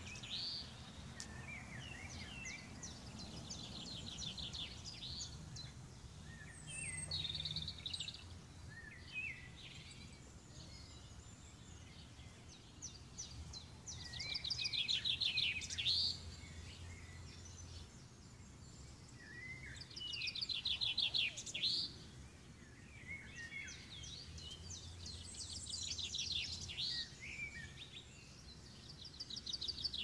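Songbirds singing: a loud, fast trilled song comes back every several seconds, with shorter chirps and whistles in between, over a low steady hum.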